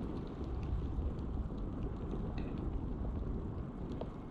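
Low, steady rumble of wind on the microphone, with a few faint ticks scattered through it.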